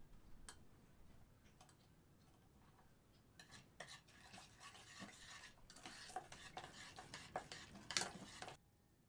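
A kitchen utensil scraping and tapping in a pot or bowl, as in stirring food. It is a faint run of scrapes and clinks that stops suddenly near the end.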